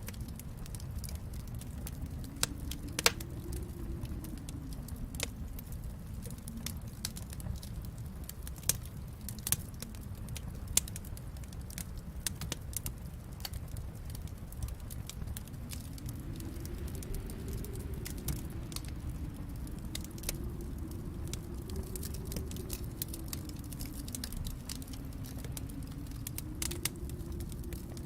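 Wood fire crackling in a fireplace: irregular sharp pops and snaps, one louder pop about three seconds in, over a steady low rumble that slowly swells and fades.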